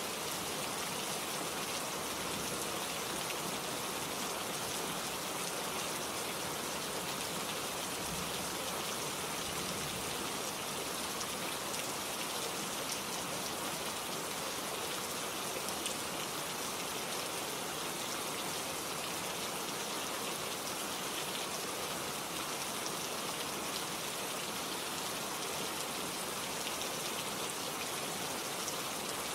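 Steady rain falling, an even, dense patter of drops that holds at one level throughout.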